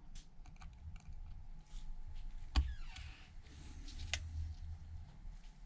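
Small clicks and taps of precision repair tools on an iPhone's internal metal plate and screws, with a sharper click about two and a half seconds in and another near four seconds.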